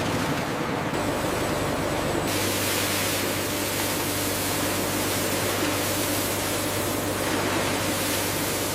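Steady hiss of processing machinery with a low hum underneath, its tone shifting a few times.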